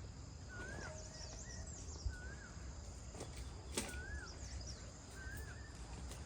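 A bird repeating one short, wavy whistled note about every one and a half seconds, with higher, quicker chirps from another bird. Under it a low rumble and a couple of sharp clicks, the loudest about four seconds in.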